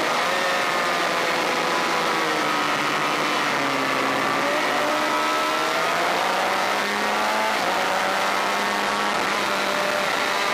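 Honda VFR400 race bike's V4 engine at racing revs. The revs fall over the first few seconds as it slows, then climb again from about halfway, then hold steady.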